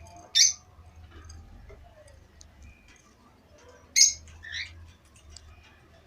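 Caged pet birds calling: two loud short harsh calls, about half a second in and again at four seconds with a weaker one right after, over quieter scattered chirps.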